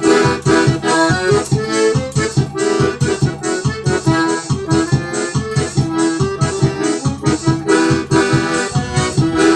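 Instrumental break in a forró song: an accordion (sanfona) plays the melody over a steady bass and drum beat.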